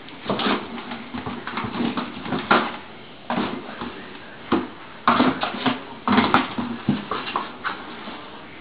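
Kittens playing in and around a cardboard box: irregular scuffs, scratches and thumps on the cardboard, coming in quick flurries with short pauses between.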